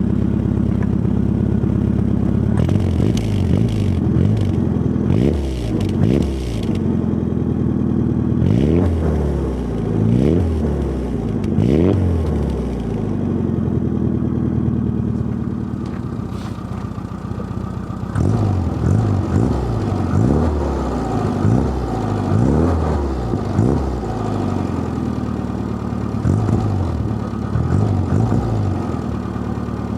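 Classic Mini's A-series four-cylinder engine through a Kings Road stainless steel exhaust, idling and being blipped on the throttle in quick bursts, each rev rising and falling within about a second, with steady idle between the bursts.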